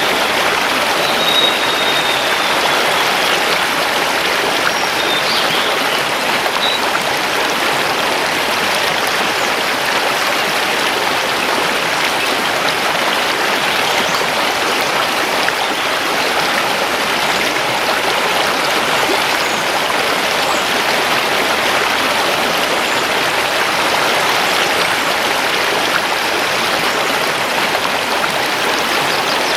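Mountain river rushing steadily over stones. A bird whistles faintly in the first few seconds.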